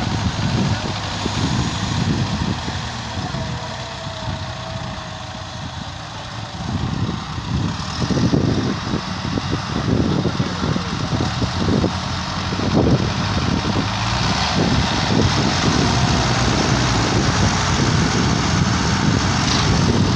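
Tractor diesel engine running, with the sound dipping slightly a few seconds in and then growing louder through the second half.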